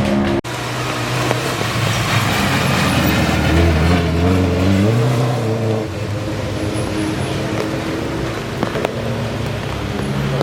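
Rally car engine running through a stage: the pitch rises over a few seconds as it accelerates, drops back about six seconds in, then holds steady. There is a brief dropout just after the start.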